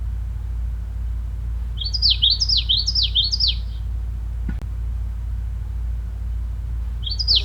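A songbird sings a phrase of about five quickly repeated down-slurred notes about two seconds in, then starts the same phrase again near the end. A steady low rumble runs underneath.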